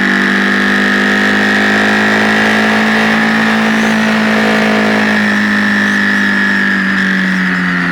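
Motorcycle engine running steadily under way, heard from an onboard camera. The pitch eases down slightly near the end as the throttle comes off.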